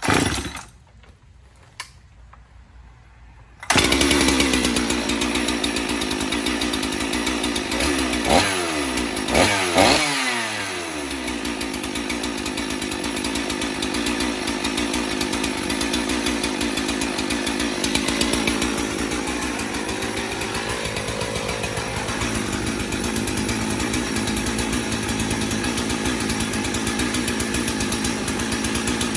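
Old two-stroke chainsaw: a short burst at the very start, then the engine fires and starts running about four seconds in. It is revved up and down a few times, then runs steadily; the owner thinks its carburetor may need adjusting because it runs up really high.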